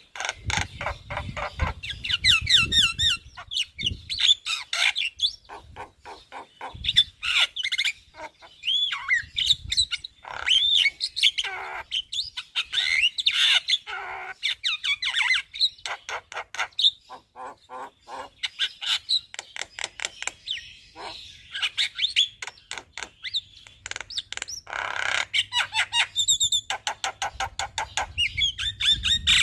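Javan myna singing continuously, a busy, varied string of whistles, rapid rattling note trains and harsh squawks, full of mimicked phrases.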